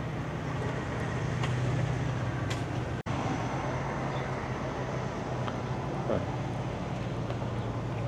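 Steady low hum of an idling engine over outdoor background noise, cut by a brief dropout about three seconds in.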